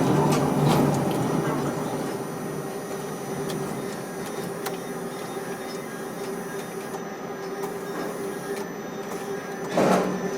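Steady machinery hum with a constant tone, louder for the first second or two, and a short louder noise near the end.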